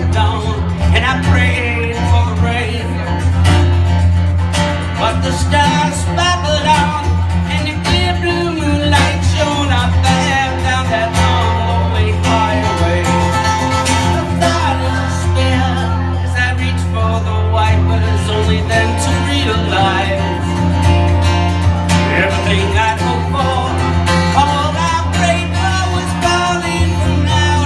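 Live acoustic country-style music: guitar playing under a melody line that wavers and bends in pitch, with a steady low bass.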